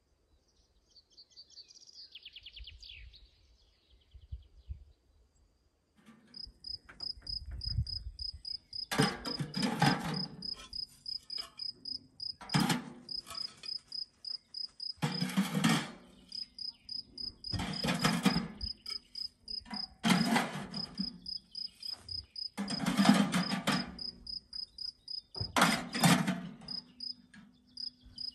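Cricket chirping in a steady, evenly pulsed rhythm from about six seconds in. Louder, broader sounds of about a second each recur every two to three seconds over it.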